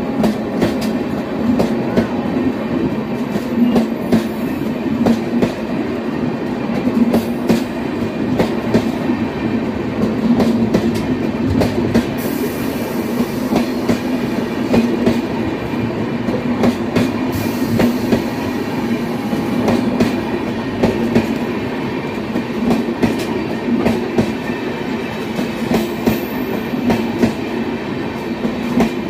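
Passenger coaches of an express train rolling along the track, wheels clattering steadily over rail joints with a continuous rumble.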